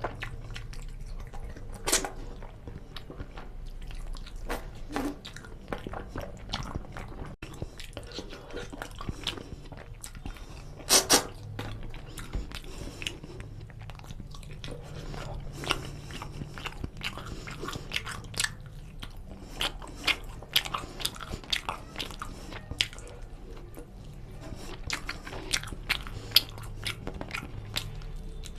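Close-miked chewing of rice and oily chicken curry eaten by hand, with many short sharp mouth clicks throughout. The loudest clicks come as a pair about eleven seconds in.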